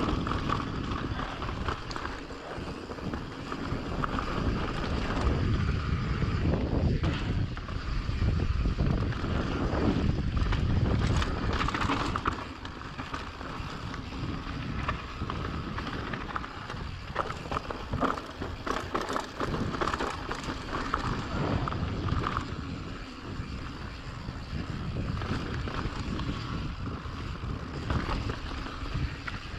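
Mountain bike riding along a dirt trail: wind buffeting the GoPro microphone over tyre noise, with scattered clicks and knocks of the bike rattling over rough ground. It is louder for several seconds in the first half.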